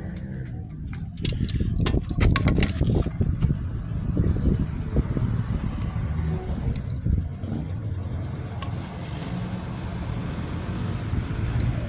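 An engine runs steadily in the background. Over it, metal parts and tools clink and knock, most busily in the first few seconds.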